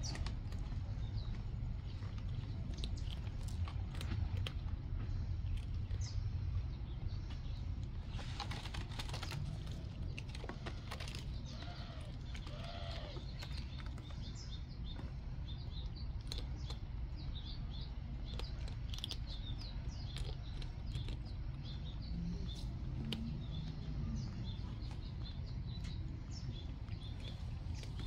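Small birds chirping again and again in the background over a steady low rumble, with light scratching and clicks from kittens clawing and clambering on a sisal-rope cat tree.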